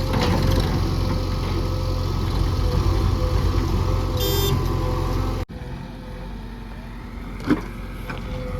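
Heavy diesel earthmoving machine's engine running steadily. About five and a half seconds in the sound cuts abruptly to a quieter engine, with one sharp knock about two seconds later.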